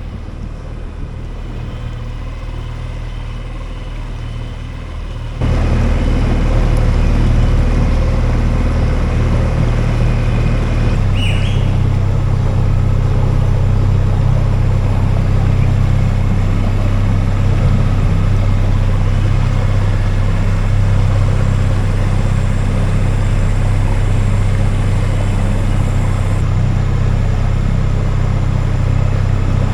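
Dinghy outboard motor running steadily under way, becoming abruptly louder about five seconds in.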